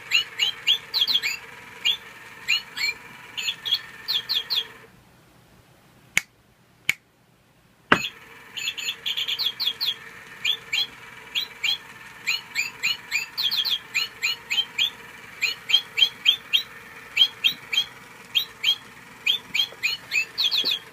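Cheap toy singing bird chirping in rapid repeated tweets over a faint steady hum. The chirping stops about five seconds in, a couple of clicks follow, and a sharp click about eight seconds in starts the chirping again.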